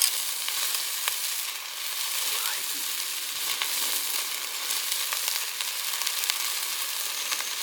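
Food frying: a steady sizzle with frequent small crackles and pops.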